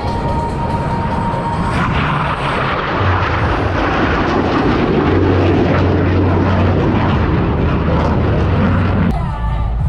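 Blue Angels jet flying by, its engine noise growing louder about three seconds in and cutting off suddenly near the end.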